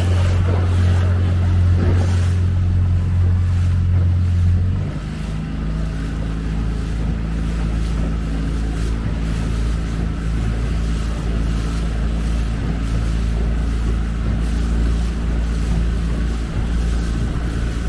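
Small motorboat's engine running steadily. About five seconds in, its note drops lower and a little quieter, then holds steady.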